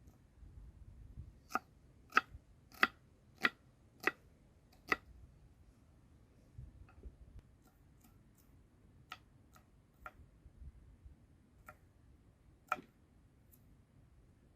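Sharp knocks of a knife striking a cutting board while chopping. About six come in an even run, roughly two every second or so, then four more spaced out.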